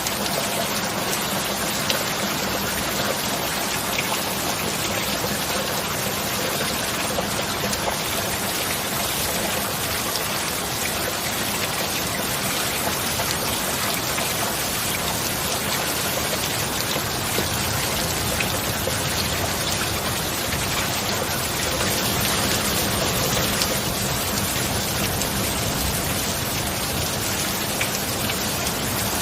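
Steady heavy rain, a dense even hiss with scattered individual drops pattering, over a faint steady low hum.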